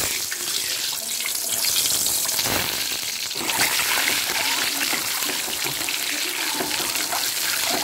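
Boiled eggs sizzling and spattering in hot oil in a wok, a steady crackling hiss with many small pops, as a spatula turns them.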